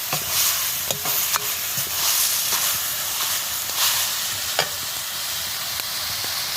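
Green vegetables frying in a pan with a steady sizzle, a spatula stirring them and knocking against the pan every so often.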